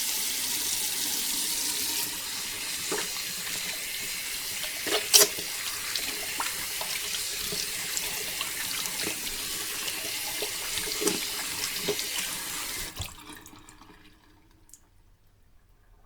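Steady rush of pouring water, like a mini water pump's outflow gushing out, with a few knocks in it. It cuts off abruptly about thirteen seconds in.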